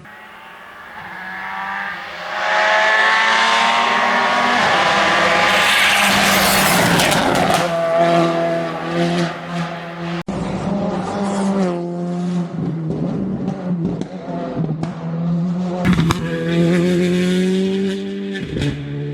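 Rally car engine at racing revs as the car passes on a special stage. The pitch climbs and falls repeatedly through gear changes, and the sound gets much louder about two seconds in as it comes close.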